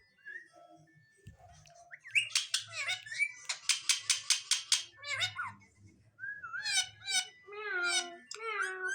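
Indian ringneck parrot calling: about two seconds in it breaks into a rapid run of harsh screeches, several a second, then gives a few calls that fall in pitch near the end.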